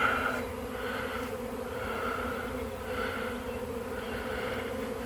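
A large swarm of honey bees in flight, buzzing in a dense, steady drone with recurring swells.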